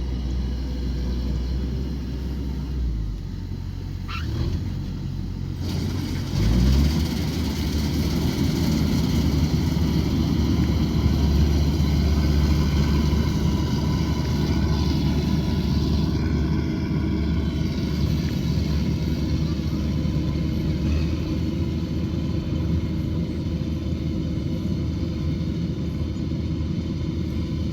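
Harvesting machine's engine running steadily under load, with its pitch rising briefly as it revs up about six or seven seconds in.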